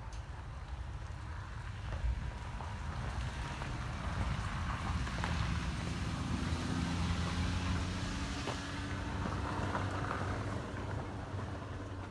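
A motor vehicle passing, its engine hum swelling to a peak about halfway through and then fading, over a low wind rumble.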